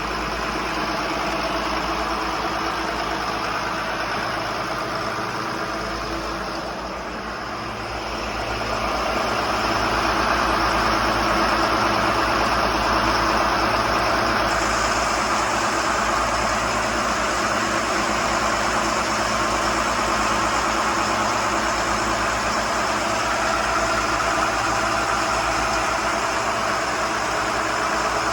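Bayliner 4788 motor yacht's engines running steadily under way, growing louder about a third of the way in and holding there.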